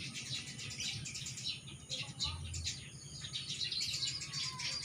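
Several small birds chirping and twittering at once in a dense, continuous morning chorus, over a steady high insect-like buzz and a faint low hum.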